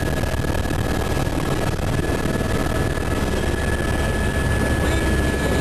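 Helicopter running: steady, dense rotor and engine noise with a thin, steady high whine over it.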